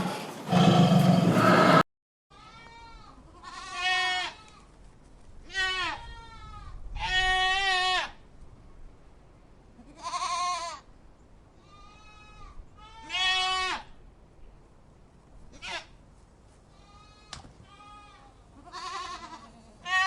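A loud, noisy sound cuts off abruptly about two seconds in. A goat then bleats repeatedly, about ten separate quavering calls each lasting under a second.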